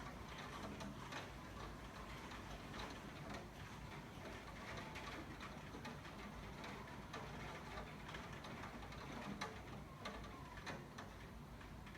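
Faint light rain, with scattered drops ticking irregularly.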